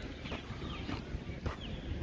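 Birds chirping: short, downward-sliding calls repeated every half second or so, over a low steady rumble.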